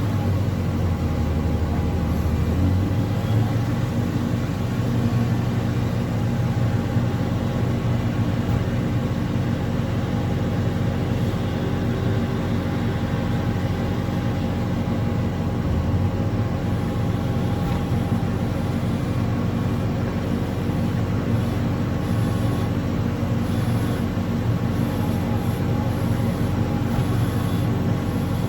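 Diesel engine of a heavy earthmoving machine running steadily. Its revs shift a few seconds in and again about halfway through.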